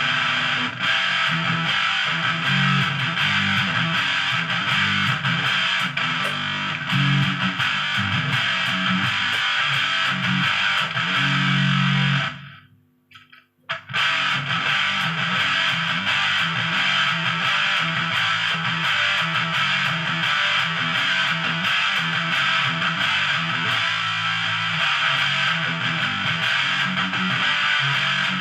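Electric guitar played through an MXR Sub Machine fuzz pedal: heavily distorted riffing with a bright, fizzy top end. It cuts out for about a second and a half near the middle, then starts again.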